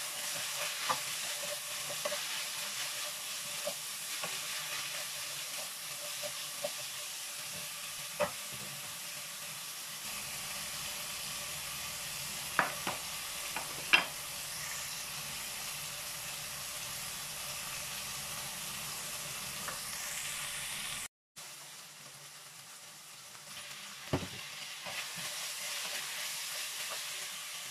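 Meat and sliced onions sizzling in a frying pan, with a steady hiss and a wooden spatula stirring and knocking against the pan a few times. The sound cuts out for a moment about three quarters of the way through, then the sizzling and stirring resume.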